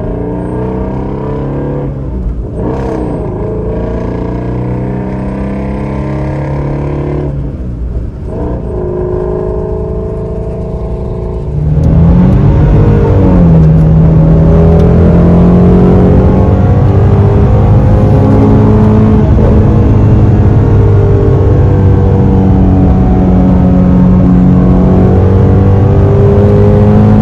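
Ford Shelby GT350's 5.2-litre flat-plane-crank V8 running while driving, its note dipping briefly twice early on. About twelve seconds in it gets much louder, the pitch rising and then holding steady under harder throttle.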